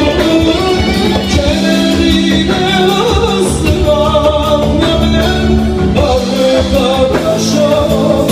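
A song played live by a band, with a singer over steady instrumental backing.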